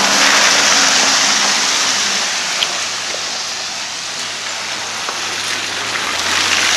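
Steady rain falling on a wet street, an even hiss that eases a little in the middle.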